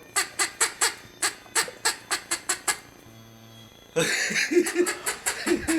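Chicken giving quick runs of short, cackling squawks, about four or five a second. Past the middle comes a brief low steady hum, then a louder, rougher stretch about two-thirds in, with the short squawks returning near the end.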